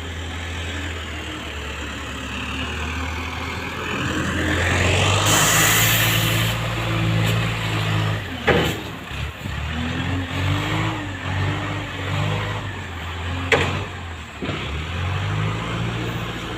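Heavy diesel engine of a loader scooping cassava, idling and then revving up and dropping back, with a short hiss about five seconds in and two sharp knocks later on.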